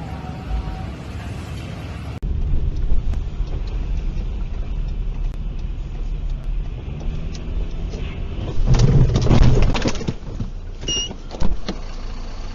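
Dashcam recording of a car's steady road rumble, then a loud burst of impact knocks and crunching about nine seconds in, lasting a second or so: a collision. A short electronic beep follows near eleven seconds.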